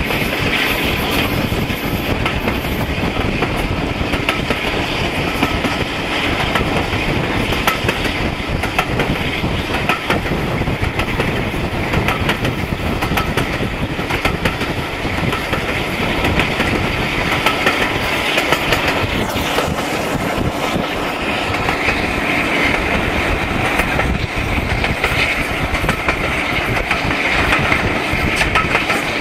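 Train of coaches running at speed behind Class 52 'Western' diesel-hydraulic D1013, heard from an open carriage window: loud, steady running noise and wind, with the wheels clicking over rail joints.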